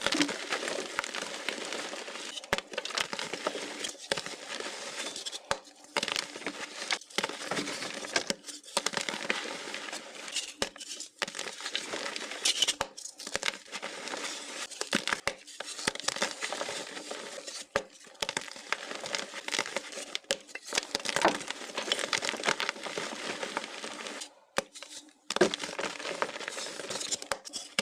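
Crinkling and crackling, like something being crumpled in the hands, broken by short pauses, with one longer pause near the end.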